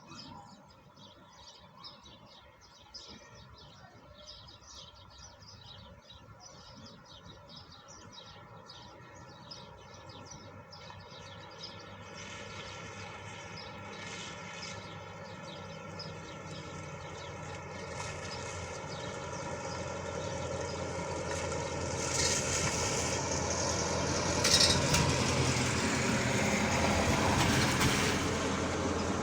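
Small birds chirping rapidly, then a steady mechanical-sounding noise that swells over about fifteen seconds and grows loudest near the end, drowning the birds.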